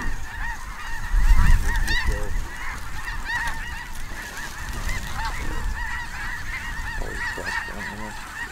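A large flock of snow geese calling all at once: a dense, continuous chorus of short overlapping calls. Low wind rumble on the microphone swells about a second in.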